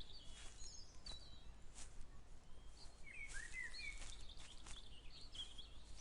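Songbirds chirping and calling, with short rising and falling notes, over the steady footsteps of someone walking, about one step every two-thirds of a second.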